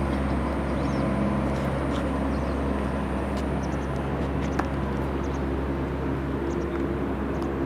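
Steady low drone of a distant engine, holding even through the whole stretch, with a few faint high chirps over it.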